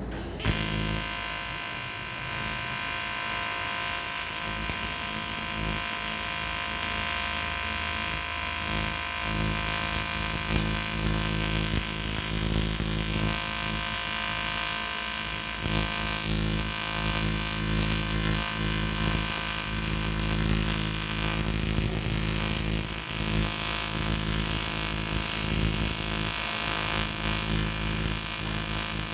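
AC TIG welding arc on an aluminium motorcycle cylinder block: a steady electric buzz with a high hiss, striking abruptly right at the start and held without a break.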